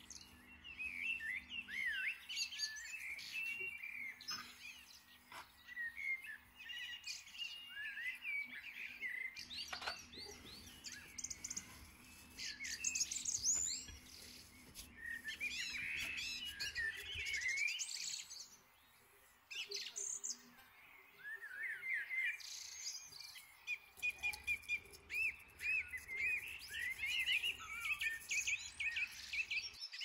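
Small birds chirping and twittering in a steady stream of quick, high notes, with a short pause a little past the middle.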